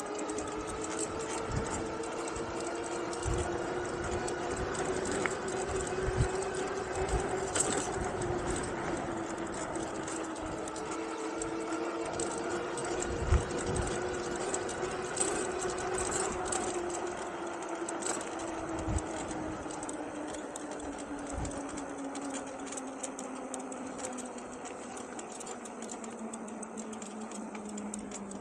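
Electric bike's rear hub motor whining under power, its pitch rising and falling with road speed and dropping near the end as the bike slows. Occasional short low thumps are heard over it.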